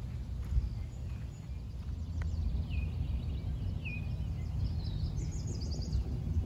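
Songbirds calling over a steady low rumble: two short downward-sliding calls in the middle, then a quick run of high, thin notes near the end.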